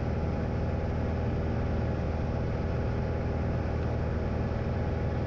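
Light aircraft's piston engine and propeller droning steadily at cruise, heard from inside the cockpit, with an unchanging low hum.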